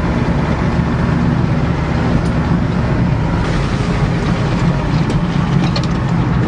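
Ford pickup truck's engine running steadily.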